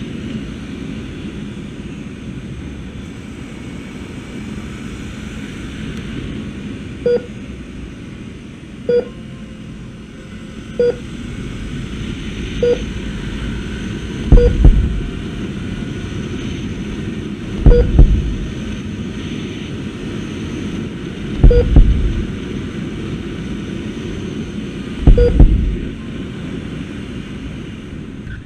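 Steady wind and road rumble from a moving motorcycle. Short beeps repeat every couple of seconds, and several heavy low thumps come in the second half.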